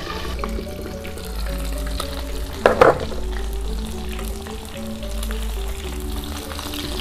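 Chicken pieces deep-frying in hot oil in a metal wok, sizzling, with a metal spatula and slotted skimmer scraping and tapping against the wok. A louder scrape comes about three seconds in.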